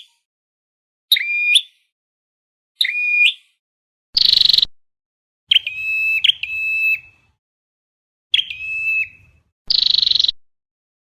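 Recorded calls of a flowerpecker (Vietnamese 'chim sâu đầu đỏ'), played as a trapping lure: about seven calls, each separated by dead silence. Thin notes that drop quickly and hold briefly alternate with two harsher buzzy calls, one a little before the middle and one near the end.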